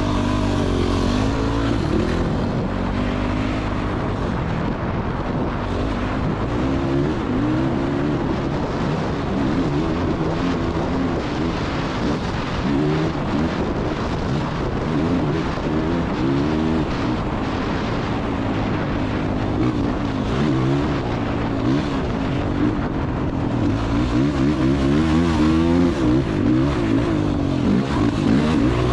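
Dirt bike engine revving hard and falling back again and again as it is ridden around a motocross track, the pitch climbing and dropping every second or two through throttle and gear changes.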